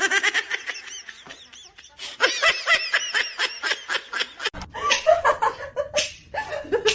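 Quick, repeated human laughter. About four and a half seconds in it gives way to a different, lower-pitched laugh.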